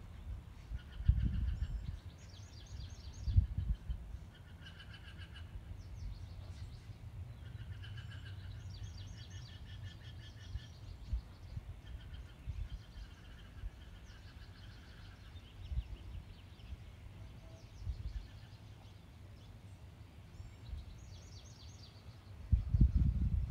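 Small birds chirping in short, repeated trilled phrases, on and off throughout. A few brief low rumbles come in near the start and again near the end.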